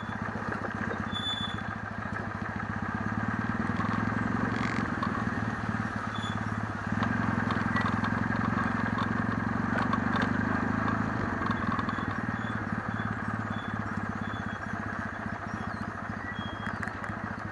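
Kawasaki W650's air-cooled parallel-twin engine running as the motorcycle is ridden. It grows louder about three seconds in, stays up through the middle, and eases off again near the end.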